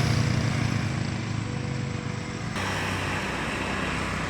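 Heavy diesel engine running steadily as a large vehicle passes, the sound easing off slightly and changing abruptly about two and a half seconds in.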